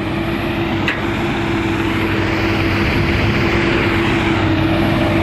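Dump truck's diesel engine running steadily as the truck drives, a constant hum with road noise. A short click about a second in.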